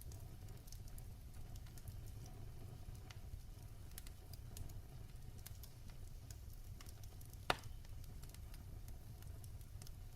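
Wood fire crackling in a fireplace: a low, steady rumble of flames with scattered small snaps and one loud sharp pop from the burning wood a little past the middle.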